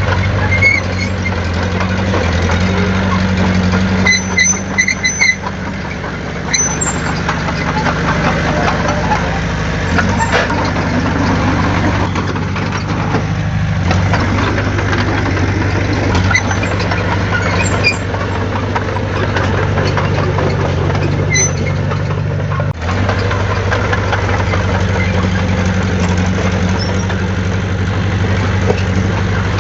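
Diesel engine of heavy earthmoving machinery running steadily, its pitch shifting a little with load, with short high metallic squeaks now and then.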